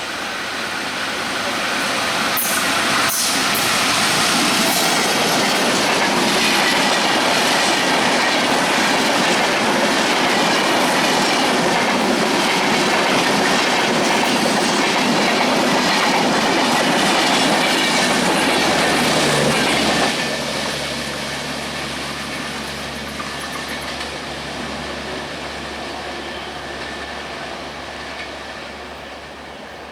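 Sundarban Express intercity train passing at speed: a loud rush of wheels and carriages with clickety-clack on the rails. It builds up over the first few seconds, stays loud, then drops away suddenly about twenty seconds in and fades.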